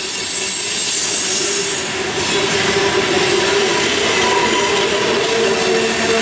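Freight train of tank cars rolling past close by, a steady noise of wheels on rail. About two seconds in, a thin, high wheel squeal sets in and holds steady.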